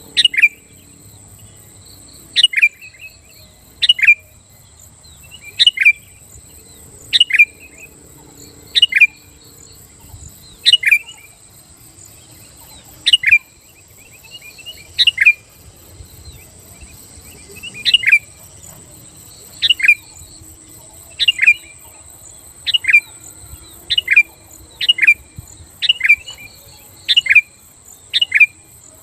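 Sooty-headed bulbul calling: short, sharp chirps, often in quick pairs, repeated every one to two seconds, over a faint steady high-pitched hiss.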